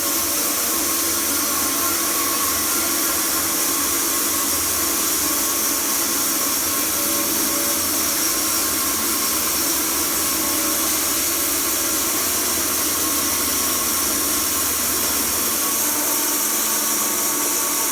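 A portable sawmill running steadily at speed while milling a log, its engine and blade making a constant noise.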